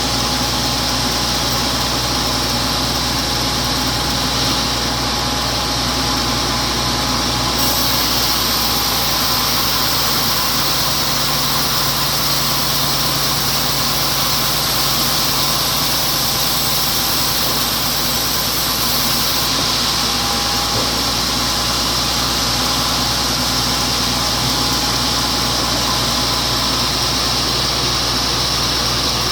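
Sawmill running steadily while sawing a wet-felled teak log, with a brighter hiss added from about 8 seconds in to about 20 seconds in.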